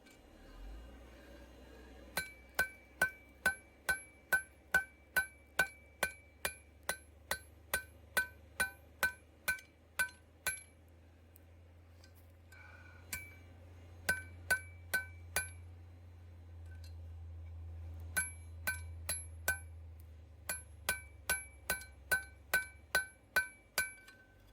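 Hammer striking hot steel on an anvil-shaped object, about two to three blows a second in several runs with short pauses; each blow rings briefly with a clear metallic ring. A low steady hum sits underneath.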